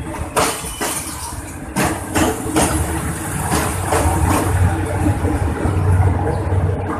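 Diesel-hauled passenger train moving through a station at close range: steel wheels clack over rail joints several times in the first few seconds, over the low rumble of a diesel locomotive engine that grows louder in the second half.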